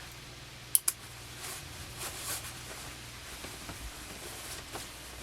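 Rustling of wedding-gown fabric as the train is tucked up into the waist, with two sharp clicks close together a little under a second in, over a low steady hum.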